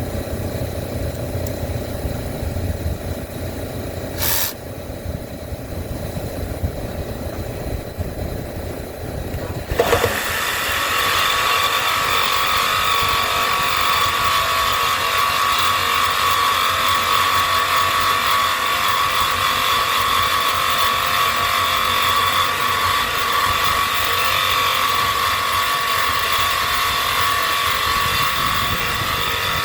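Low rumble with a single click, then about ten seconds in a reciprocating saw (sawzall) starts and runs steadily with a high whine, cutting through a seized steel fan-motor pulley.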